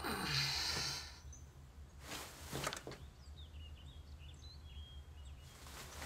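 Quiet outdoor ambience: a short rush of noise in the first second, then faint bird chirps about three to four and a half seconds in.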